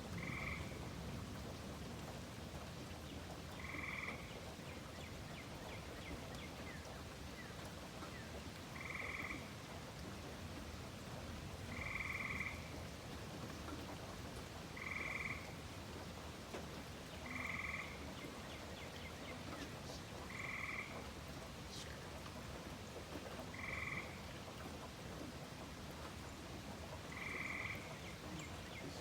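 A frog calling over and over, each call a short trill of about half a second, repeated every three to five seconds over a steady hiss of summer rain.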